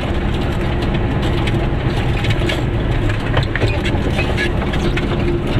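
Goggomobil's small two-stroke twin engine running steadily while the car drives along, heard from inside the cabin, with many small rattles and clicks throughout.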